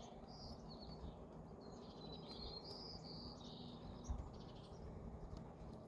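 Faint songbird chirps and short warbling phrases, several in quick succession through the middle, over a low background rumble.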